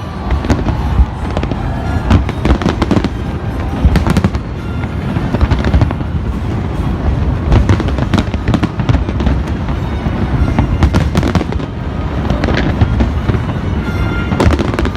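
Aerial fireworks bursting continuously in a rapid barrage of bangs and crackles over a dense rumble of booms, with music playing along.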